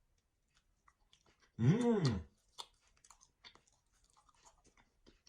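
A person chewing, with many faint, irregular crunchy clicks. Near the start a short hum rises and falls in pitch.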